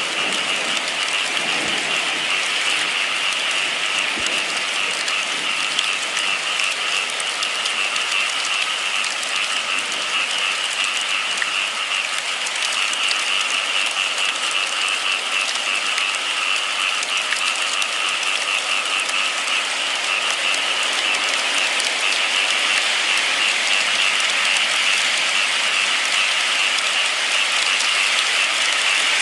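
Steady rain falling, a continuous even hiss of drops that grows slightly louder in the last third.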